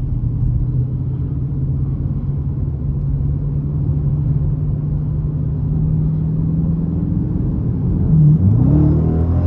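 Dodge Challenger R/T's 5.7-litre Hemi V8 running with a steady low drone while cruising, then the revs dip and rise again about eight seconds in as it accelerates.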